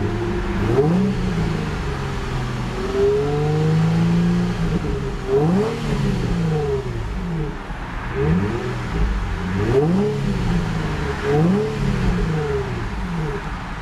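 2003 Infiniti G35 Coupe's 3.5-litre V6 being revved repeatedly from idle. It gives a series of short rev blips, with one longer held rev about three to four seconds in, each rising and then falling in pitch.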